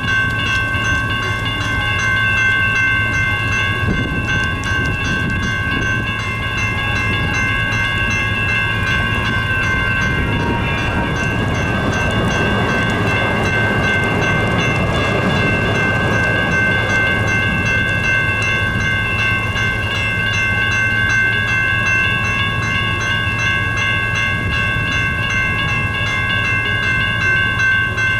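A train rumbling past a road crossing while the crossing bells ring steadily, with a fast, even ringing held throughout. The rumble swells for a few seconds around the middle.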